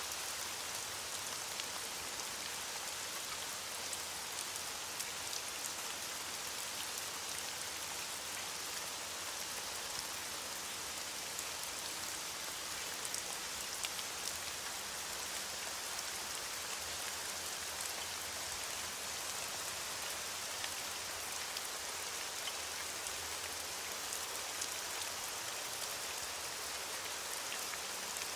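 Steady heavy rain falling, an even hiss dotted with many small drop ticks.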